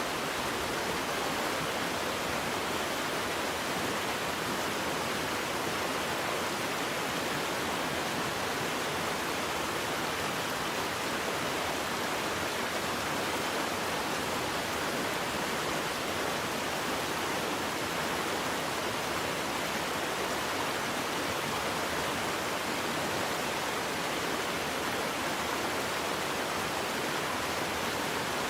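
Waterfall: a steady, unbroken rush of falling water with no distinct splashes or changes.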